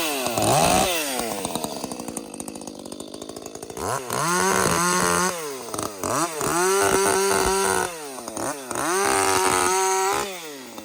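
Small ported 30cc Echo two-stroke chainsaw idling low for a few seconds, then revved to full throttle in five bursts of a second or so each, dropping back toward idle between them.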